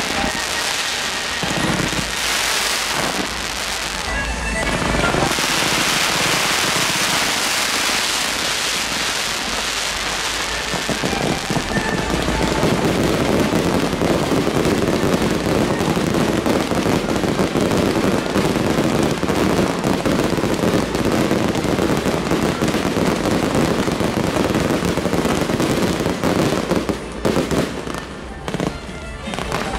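Fireworks display: ground fountains of sparks and aerial shells crackling and banging continuously. About ten seconds in it thickens into a dense, unbroken crackle, with a few separate bangs near the end.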